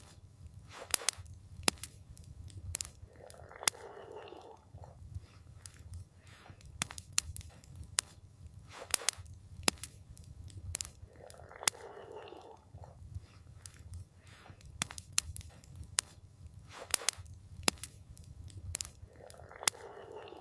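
Campfire crackling: irregular sharp pops and snaps from burning wood over a steady low rumble, with a soft rushing swell about every eight seconds.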